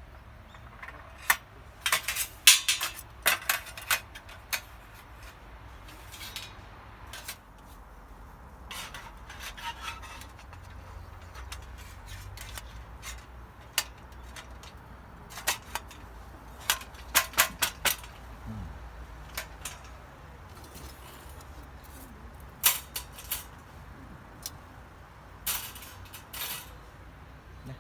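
Light metal objects clinking and clattering in irregular clusters of sharp clanks, as when handling metal gear.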